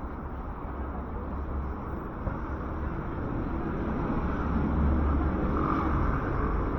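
City street traffic with a motor vehicle passing close by: a low rumble that swells to a peak about five seconds in and then eases off a little.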